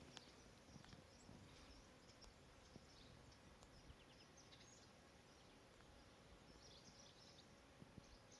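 Near silence: faint outdoor ambience with scattered short, high chirps, a cluster of them about seven seconds in.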